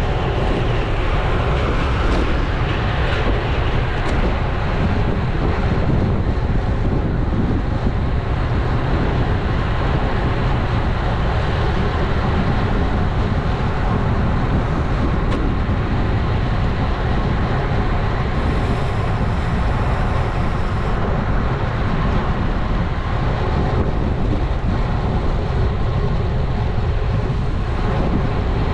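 Steady wind rumble on a GoPro action camera's microphone, with road-bike tyre noise, while riding at speed.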